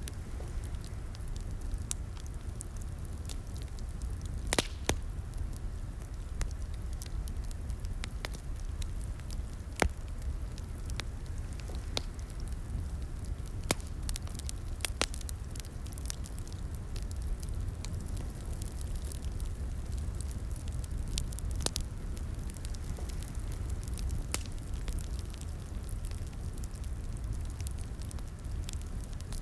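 Wood fire crackling in a fireplace: a steady low rumble of flame with irregular sharp pops and snaps, a few louder ones standing out.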